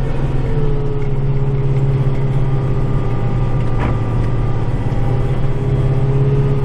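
Kubota tractor's diesel engine running steadily, with a short click about four seconds in.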